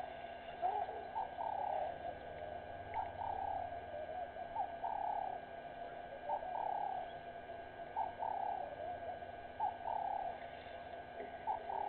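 Dove cooing over and over: each phrase is a short note followed by a longer slurred one, repeated about every second and a half.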